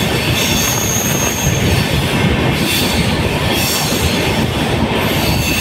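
Passenger train running through a tunnel, heard from the side of a coach: a loud, steady rumble of wheels on the rails, with a thin high wheel squeal now and then.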